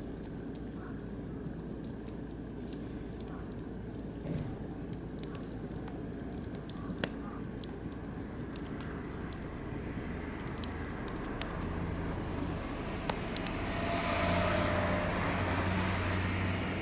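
Oak and beech logs burning in a barbecue grill, crackling with scattered sharp pops over a steady low rumble. In the last few seconds a louder low rumble with a hiss swells up.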